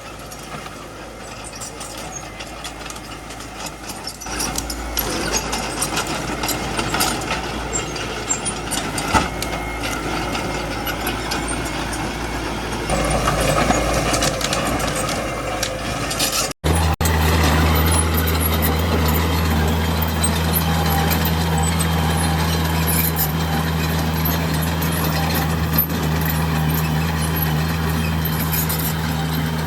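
Small bulldozer's diesel engine running under work with scattered clicks and cracks. Just past halfway the sound breaks off abruptly and gives way to a steady, even engine drone.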